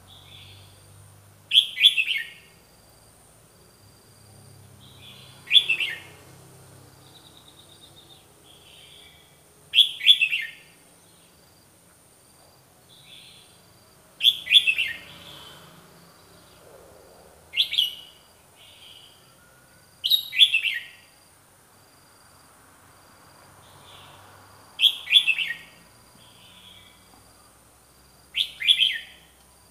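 Red-whiskered bulbul singing: a short, loud phrase about every three to four seconds, eight in all, with softer chirps between them.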